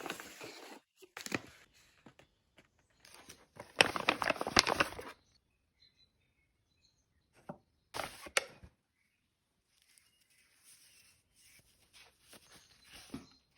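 Packaging being handled in bursts: paper and plastic crinkling and rustling, loudest in a long crackly stretch a few seconds in, with shorter bursts around it.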